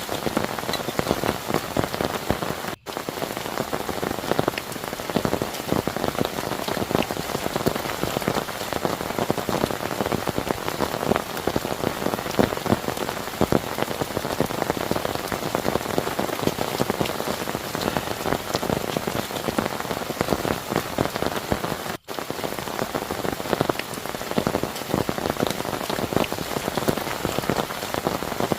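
Heavy rain falling steadily, a dense hiss full of individual drop hits. It cuts out for an instant twice.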